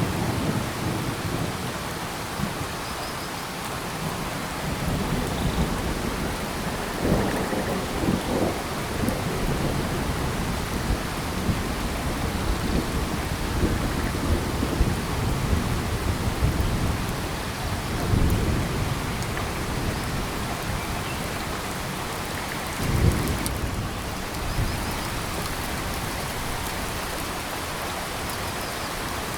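Steady rain falling on tropical forest, a continuous even hiss, with a few short low rumbles swelling up through it.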